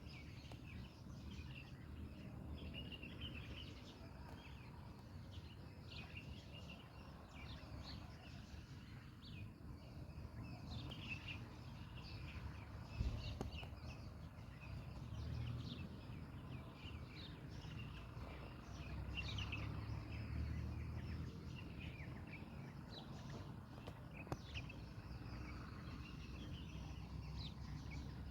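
Bulbuls calling in many short, quick chirping notes, over a steady low rumble, with a single thump about halfway through.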